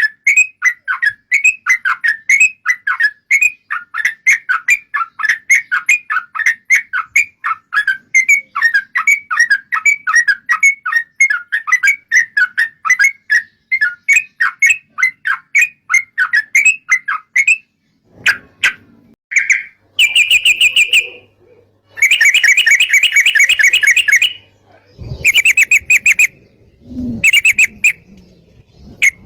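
Yellow-vented bulbul (trucukan) singing: a fast, even run of short bubbly chirps, about five a second, then after a brief pause several louder, denser bursts of song.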